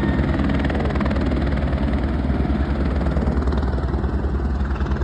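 A steady engine drone with a fast, even pulse.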